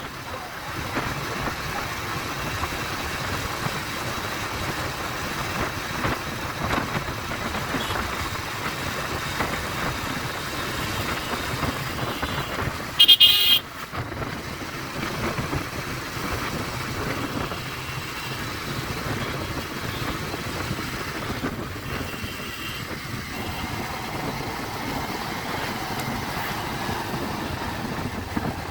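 Pulsar 150 motorcycle under way: a steady rush of wind and engine noise, with one short, loud horn toot about halfway through and a fainter horn tone later.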